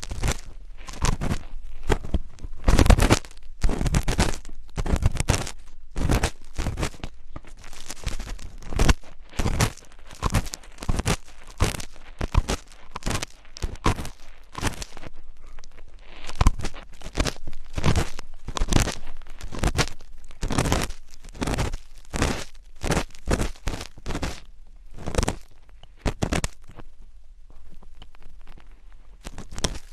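Close-miked ASMR scratching: a steady run of short, irregular scratchy strokes, one to three a second.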